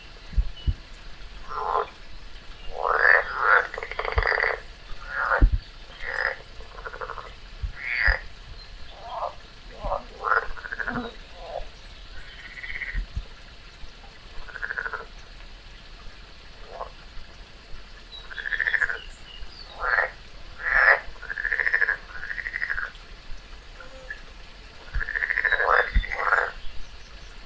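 Frogs croaking: a string of short, irregular calls, some in quick pairs.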